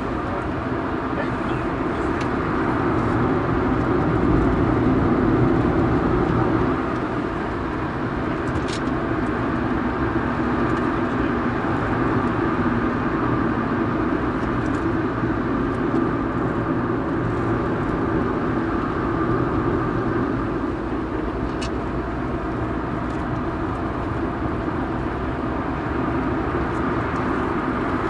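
Inside the cabin of a first-generation Honda Insight under way on track: its 1.0-litre three-cylinder engine running steadily with road noise. The sound swells a few seconds in and eases back at about seven seconds.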